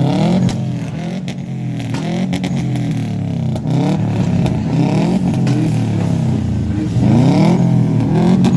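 Car engine revving hard over and over, its pitch climbing and dropping several times in quick succession, as in a car being drifted, with a few short sharp cracks mixed in.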